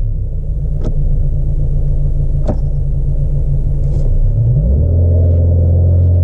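A 2017 Renault Megane GT's 1.6-litre turbo four-cylinder idles steadily at a standstill, heard from inside the cabin, with two short clicks. About four and a half seconds in, the revs rise and hold steady near 3,000 rpm under launch control, poised for a standing-start launch.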